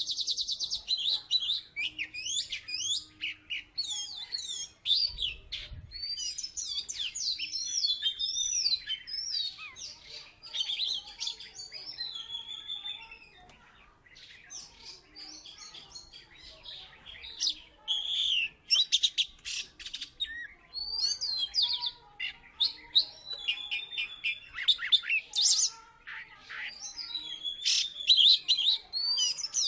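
Oriental magpie-robin (kacer) singing vigorously: a long, varied run of fast whistled phrases and trills, easing off briefly about halfway through before resuming.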